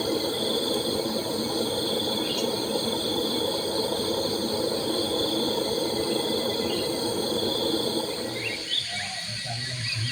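Night chorus of frogs and insects: dense, steady croaking with several unbroken high insect trills over it. About eight and a half seconds in, it gives way to birds chirping.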